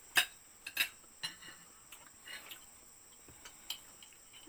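Cutlery clinking and scraping against a plate during a meal, a few irregular sharp taps, with a steady high-pitched insect drone behind.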